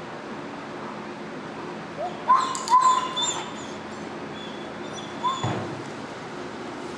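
Dog whining in short high yelps: a cluster about two seconds in and one more a few seconds later.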